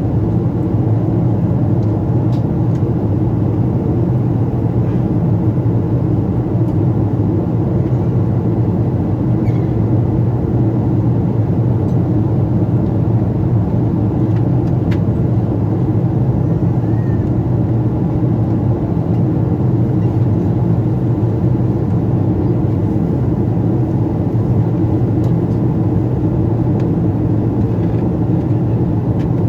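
Steady drone of a Boeing 777-200's engines and rushing air, heard inside the passenger cabin during the descent.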